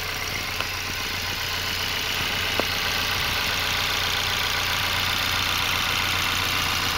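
Honda S2000 (AP2)'s 2.2-litre four-cylinder VTEC engine idling steadily, heard close up in the open engine bay. The idle is smooth and settled, with no abnormal noises and normal vibration.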